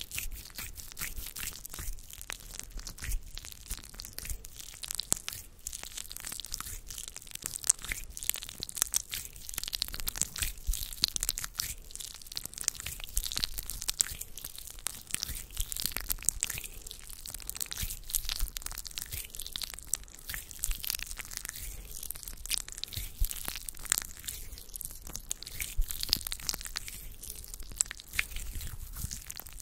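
Hands rubbing and moving close to an ASMR microphone: a steady, dense run of small crackles and clicks with no voice.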